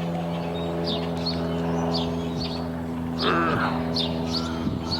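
A light single-engine propeller plane, which looks like a Cessna 172, drones steadily overhead. Small birds chirp over it about twice a second.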